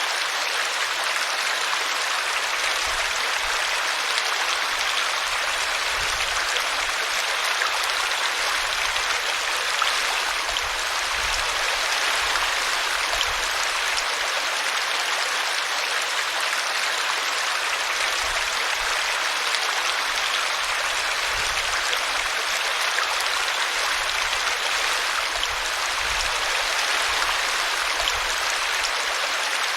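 Small brook running steadily over a tree root, a continuous rushing and splashing of water.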